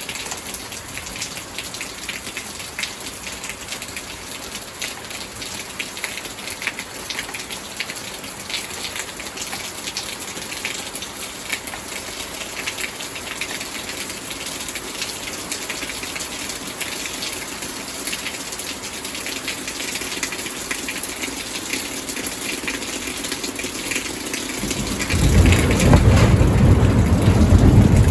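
Steady rain falling, a dense patter of drops. Near the end, a loud, deep rumble of thunder comes in suddenly and keeps rolling.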